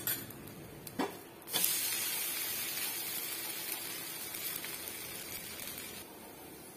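Varai dosa sizzling on a hot non-stick tawa. The sizzle starts suddenly about one and a half seconds in, after two light knocks, and then slowly dies down as the dosa is turned and pressed with a wooden spatula.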